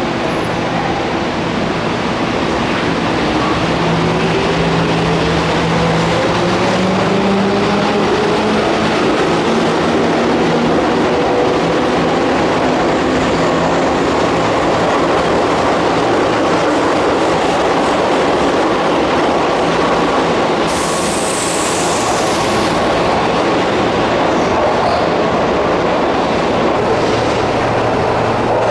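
Keihan electric train pulling away, its traction motor whine rising in pitch over the first several seconds as it speeds up, then steady running with wheels clattering over the rail joints. A brief high hiss comes about 21 seconds in.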